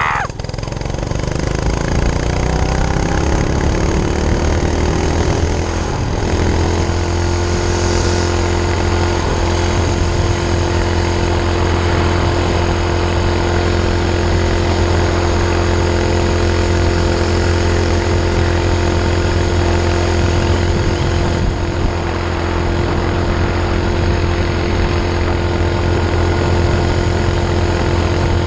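Minibike's 5 hp Honda single-cylinder engine pulling hard, its pitch climbing for the first six seconds or so, then holding a steady high speed near full throttle.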